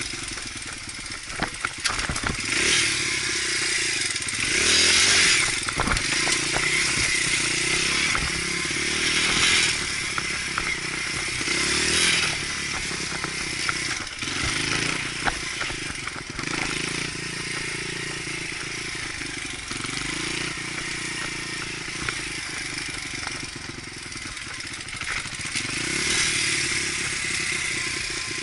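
Dirt bike engine revving up and down as the bike is ridden along a trail, with a few sharp clattering knocks in the first several seconds.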